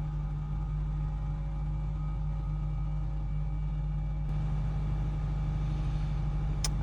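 A 2010 Honda Civic Hybrid switched on and running, giving a steady low hum. A short sharp click comes near the end.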